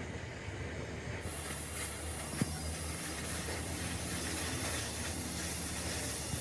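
Steady hiss that comes in about a second in and holds, over a low hum, with a single sharp click midway.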